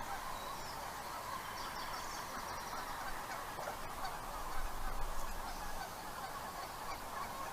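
Outdoor bird calls: a dense, continuous chatter of many calls, with higher chirps twice and a short low rumble about halfway through.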